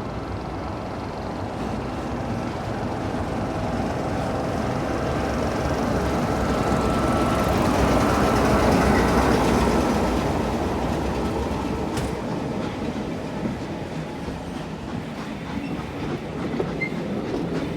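A train passing, growing louder to a peak about halfway through and then fading, with the clickety-clack of wheels over the rail joints and a sharp click near two-thirds of the way.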